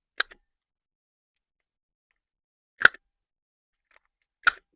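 Corner rounder punch clicking three times, once per paper corner, as the corners of a cut paper band are rounded off.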